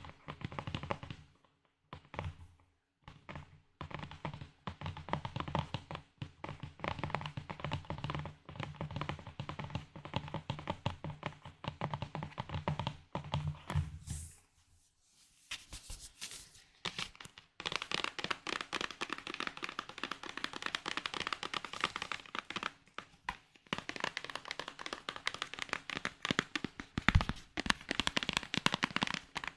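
Close-up ASMR tapping and crackling on small objects, a dense run of rapid clicks and taps. It pauses for a couple of seconds about halfway, then goes on as faster, denser crackling.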